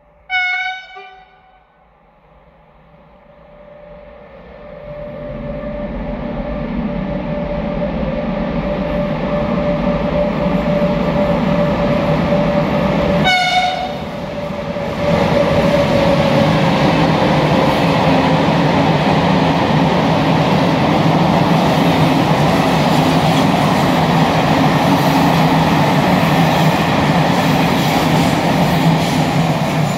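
ONCF E-1400 electric locomotive sounding its horn briefly at the start, then the train's rumble growing louder as it approaches through a tunnel. A second short horn blast comes about halfway, and then the locomotive and coaches pass close by, loud and steady.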